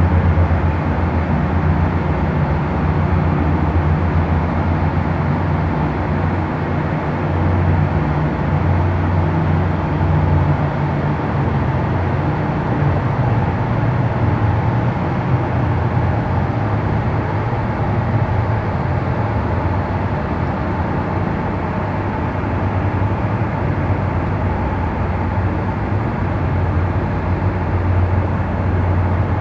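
Boat engines running steadily with a low drone that slowly swells and eases.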